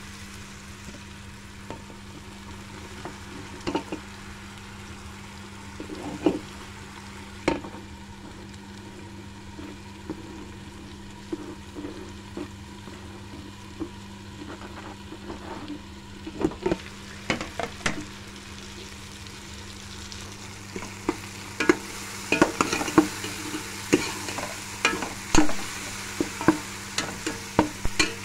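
Spiced minced meat frying in oil in a pressure-cooker pot, with a steel spoon scraping and clinking against the pot as it is stirred. The clinks are scattered at first and come thick and loud for the last several seconds, once potato sticks are in. A steady low hum runs underneath.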